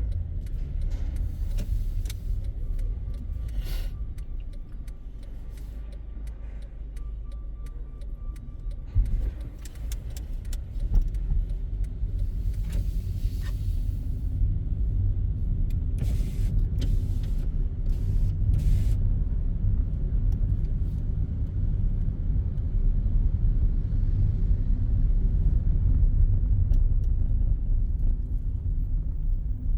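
Car driving on city streets, heard from inside the cabin: a steady low engine and road rumble that grows a little louder in the second half, with scattered short clicks and knocks.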